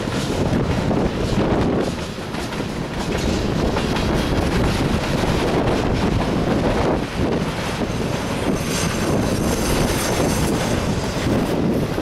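Freight train cars, mostly autoracks, rolling steadily past, their steel wheels clattering on the rails.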